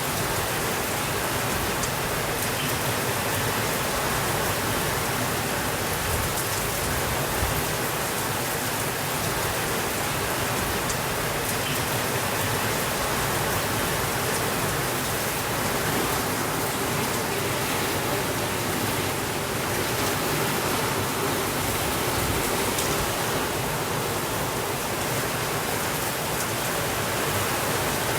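Steady rain falling, an even hiss with a few faint drop ticks and no change in level.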